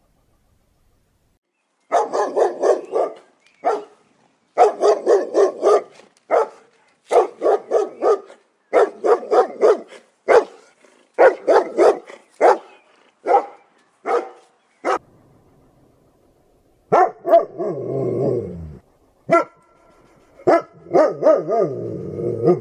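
A dog barking in quick runs of short barks, several a second, starting about two seconds in. Near the end come a few longer, lower sounds that fall in pitch.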